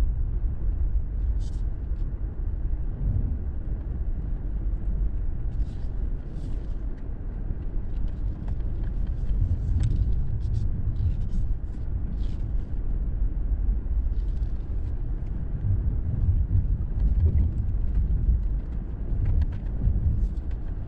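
Steady low rumble of a car driving, from road and engine noise, with scattered faint small ticks and rattles.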